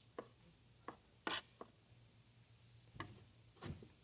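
Hand scraper scraping caked grass off the underside of a lawn mower deck: a few short, scattered scrapes and knocks, the loudest about a second and a quarter in.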